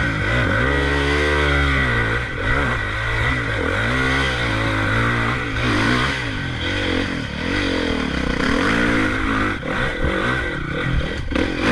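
Motocross dirt bike engine revving up and down over and over, the throttle opening and closing about once a second.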